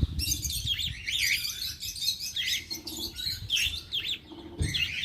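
A flock of small cage birds chirping and twittering, many calls overlapping without a break.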